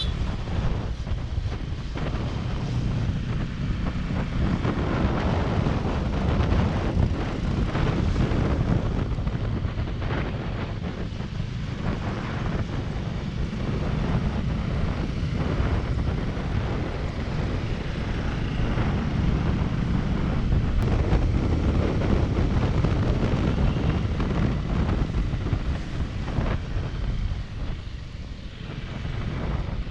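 Wind buffeting the microphone over the steady running and road noise of a motorcycle on the move.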